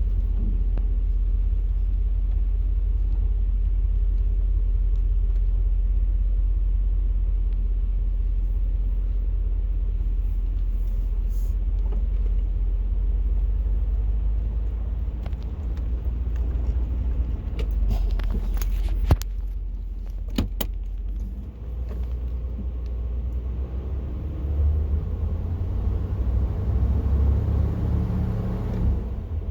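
1987 Chevrolet K5 Blazer's throttle-body-injected V8 running steadily with a deep, low note. A few sharp clicks come about 18 to 20 seconds in, and the engine note changes from about 22 seconds on.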